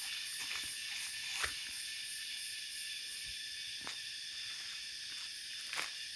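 Steady high-pitched insect chorus of the forest, with a few faint clicks about a second and a half, four and six seconds in.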